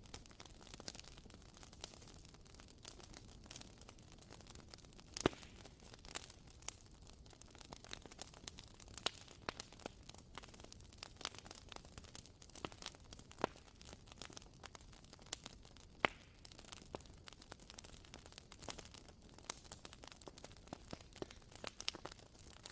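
Wooden-wick candle (WoodWick) crackling faintly like a small campfire: irregular sharp snaps and pops over a low hiss, a few louder pops standing out.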